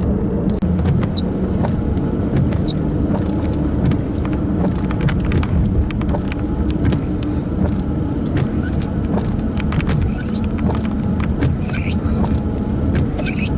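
Steady low rumble of a car engine idling, with many scattered sharp taps of the first raindrops hitting the car.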